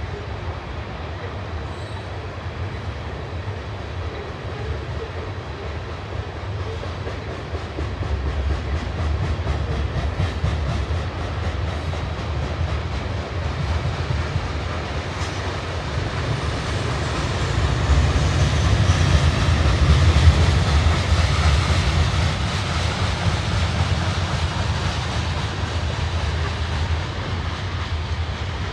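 Freight train's cars rolling past: a steady low rumble of steel wheels on rail that swells about two-thirds of the way through, then eases a little.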